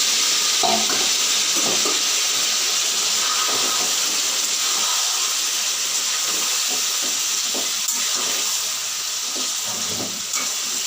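Marinated chicken frying in hot mustard oil in a kadai: a loud, steady sizzling hiss that eases slightly near the end. A few light clicks of stirring against the pan come through it.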